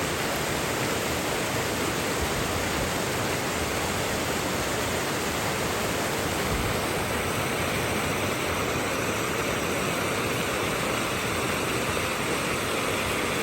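Flowing water rushing steadily, a continuous even hiss with no breaks or single splashes.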